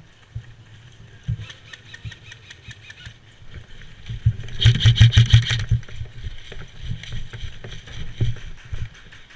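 Airsoft electric gun fired in a rapid full-auto burst of about a second and a half, about halfway through, with scattered fainter shots and clicks around it.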